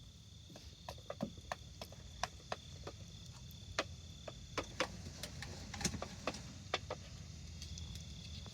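Small campfire kindling crackling with irregular sharp pops, faint, over a steady high thin hum that stops about halfway and comes back near the end.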